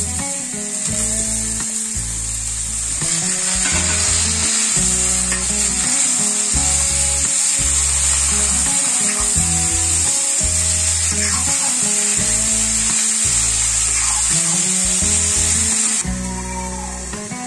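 Brinjal, green chilies and chickpeas sizzling in hot oil in an iron kadai while a metal ladle stirs them; the steady sizzle cuts off near the end.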